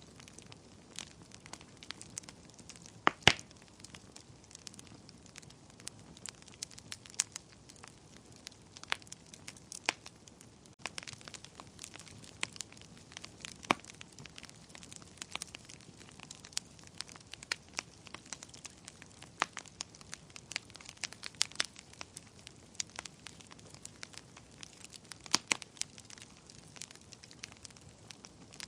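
Wood fire burning in a fireplace: irregular crackles and snaps over a faint steady hiss, with a loud pop about three seconds in.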